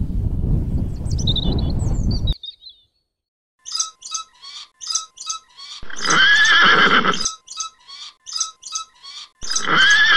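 Horse whinnying twice, about six seconds in and again near the end, over a high chirp that repeats two or three times a second. Before that, a low rumbling noise with a few faint chirps cuts off about two seconds in.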